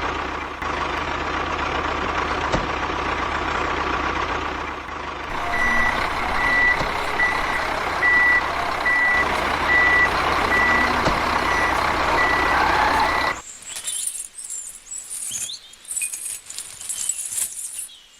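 A truck's engine running steadily, with a reversing alarm beeping about twice a second for several seconds in the middle. Near the end the engine sound cuts off abruptly, leaving quieter, patchy noise.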